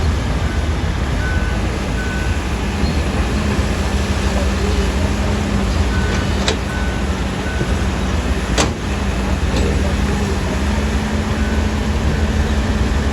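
Heavy diesel earthmoving machinery running steadily with a low drone, with a few short high beeps and a couple of sharp knocks, the loudest about two-thirds of the way through.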